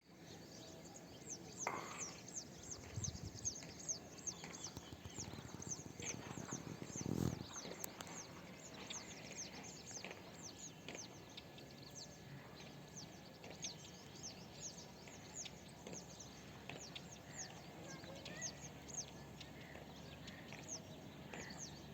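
A flock of ababil birds calling: many short, high chirps, each falling in pitch, packed several to the second and overlapping throughout. A louder low thump comes about seven seconds in.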